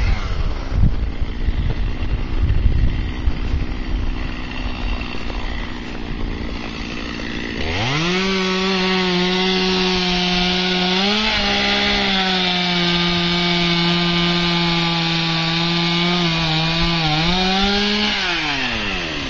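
Chainsaw running slowly for several seconds, then revved to full throttle about eight seconds in and held there cutting wood. Its pitch dips briefly twice, then it drops back down near the end.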